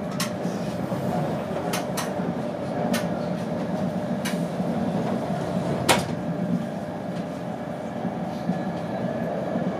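Steady running rumble inside a Mark 4 coach of an InterCity 225 train travelling at speed, with about six sharp clicks and knocks through it, the loudest about six seconds in.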